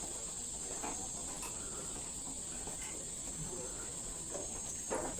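Rainforest insects calling in a steady, high-pitched chorus, a continuous shrill buzz, with a few faint soft knocks underneath.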